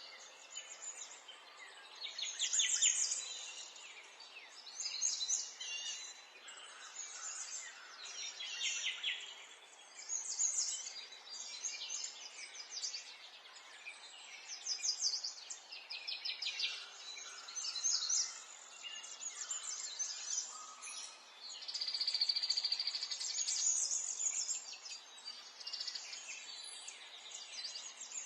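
Small songbirds chirping and singing in overlapping phrases of rapid trills and repeated high notes, over a steady outdoor background hiss. Toward the end one longer, buzzier trill holds for a couple of seconds.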